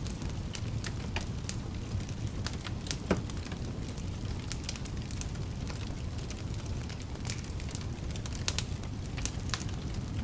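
Wood fire burning in a fireplace: a steady low rumble of flames with frequent irregular sharp crackles and pops, one louder pop about three seconds in.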